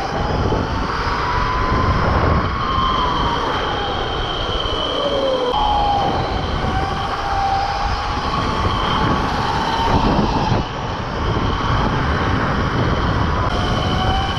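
Electric mini bike's 72-volt, 6,000-watt motor whining while riding, its pitch rising and falling several times with speed, over a heavy rushing noise of wind and road.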